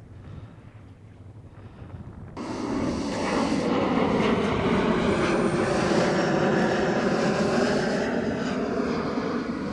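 Boeing 757-200 twin-engine jet passing low overhead on final approach. A loud jet rumble comes in abruptly about two seconds in, stays loudest through the middle and eases toward the end.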